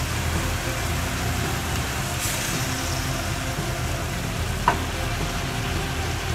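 Pork slices simmering and sizzling in their own juices in a wok, a steady bubbling frying sound, with one short clink about two-thirds of the way through.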